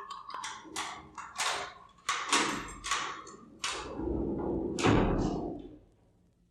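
Jail door opening: a run of sharp clicks and clanks about ten strikes long, the loudest and heaviest about five seconds in, dying away just before the end.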